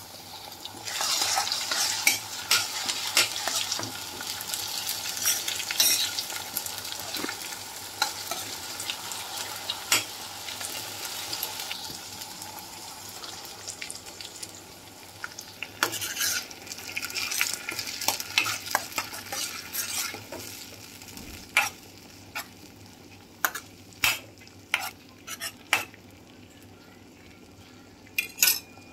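Onions and ginger-garlic paste sizzling in hot oil in a nonstick pan while a spoon stirs and scrapes through them. Partway through, tomato puree goes in and the frying and stirring carry on, and near the end there is a run of sharp clicks of the spoon against the pan.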